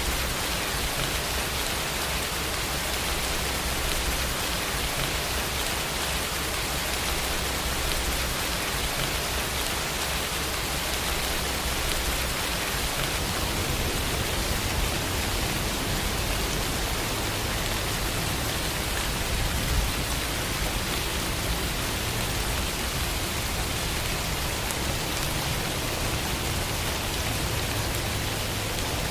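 Steady rainfall with a continuous low rumble beneath it.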